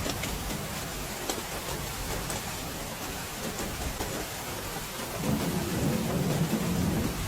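Heavy rain falling steadily, with scattered sharp drop ticks, and a low rumble of thunder that swells about five seconds in.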